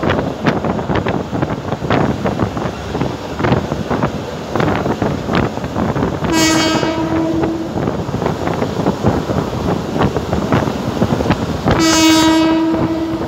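Abu Qir suburban train running, heard from on board with a steady rattle and clatter of wheels on the track. Its horn sounds twice, once about six seconds in and again near the end, each blast about a second and a half long.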